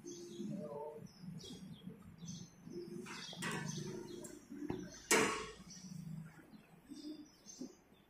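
Small birds chirping in short, scattered high calls, with a sharp knock about five seconds in.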